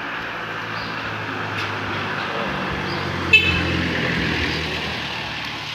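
A motor vehicle engine running past, growing louder and then fading away. About three seconds in there is a short, high-pitched toot.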